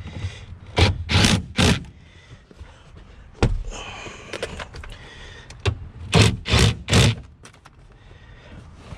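Car rear bench seat cushion being pushed down into its floor clips: heavy thumps, three in quick succession about a second in, a sharp knock with a scrape around the middle, and three more near the end, as the cushion is pressed to click it into place.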